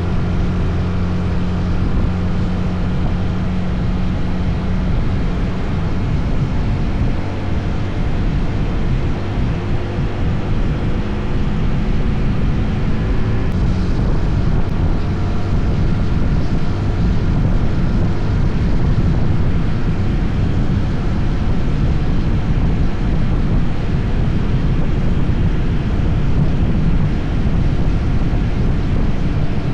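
SYM NH 180 motorcycle engine running steadily while riding, with wind noise rushing over the microphone; the engine note holds steady for the first few seconds, then blurs into the road and wind noise.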